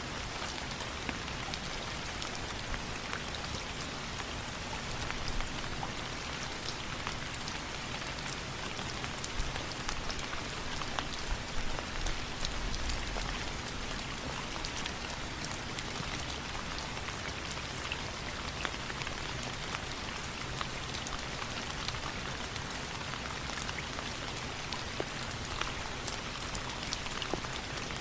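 Steady rain falling, an even hiss dotted with many sharp drop ticks and a brief low thump about halfway through.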